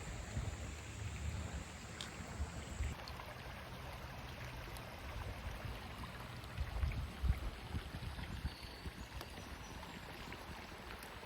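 Running water, a steady even rush, with uneven low thumps on the microphone.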